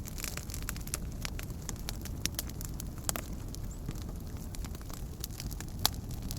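Wood campfire crackling: irregular sharp pops and snaps over a steady low rumble of the flames, with one louder pop near the end.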